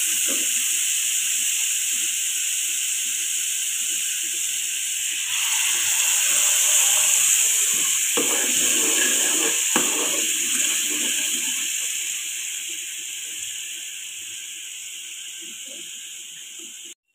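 Watery spice masala sizzling and hissing in a hot frying pan as it is fried through, with a steel spoon scraping and stirring it. The sizzle grows louder about five seconds in and fades gradually over the last few seconds.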